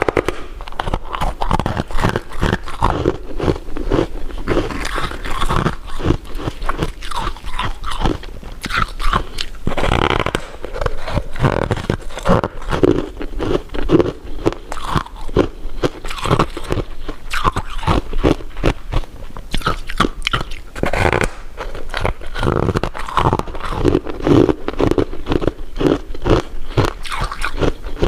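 Close-miked eating of candy and jelly sweets: repeated crunchy bites and wet chewing, with many small cracks and crackles.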